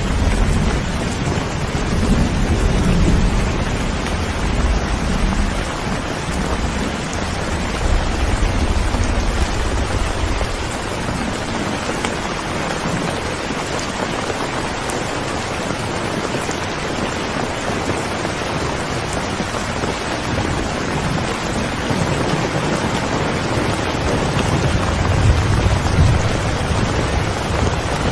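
Steady rain, with a low rumble of thunder swelling in the first few seconds and again near the end.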